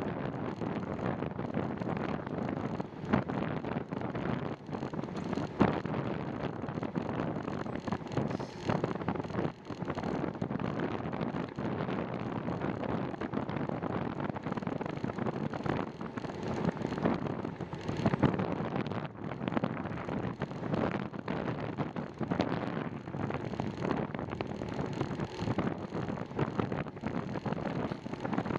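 Steady wind rush on the microphone of a bicycle-mounted camera while riding, with scattered short knocks.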